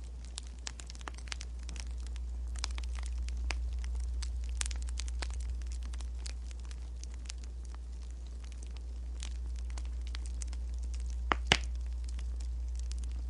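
Wood fire crackling: scattered small pops and ticks throughout, over a steady low hum, with two sharper clicks in quick succession near the end.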